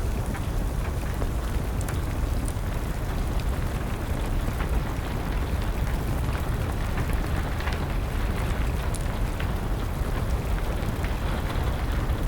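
Steady rain over a deep low rumble, with a wood fire crackling in scattered sharp pops.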